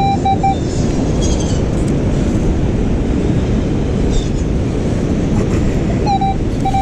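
Steady wind rumbling on the microphone over beach surf. A metal detector's pulsing, warbling target tone sounds for half a second at the start and comes back near the end.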